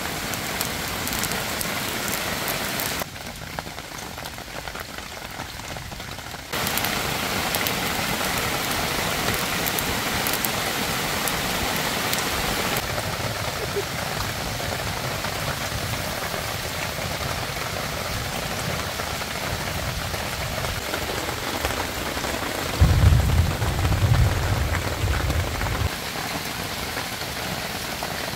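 Steady rain pattering on surfaces, an even hiss that drops abruptly for a few seconds early on and then returns. A louder low rumble runs for about three seconds near the end.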